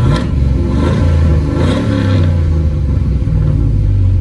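Cammed 5.3-litre LS V8 running through a Carven R-series muffler, given a quick blip of throttle that rises in pitch at the start, then running steadily.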